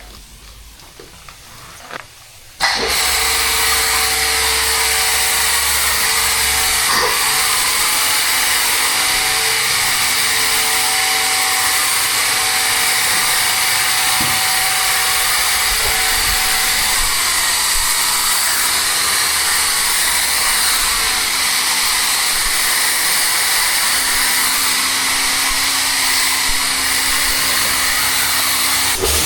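A pressure washer starts up suddenly about two and a half seconds in and runs steadily: a motor hum with a loud, even hiss of water spray.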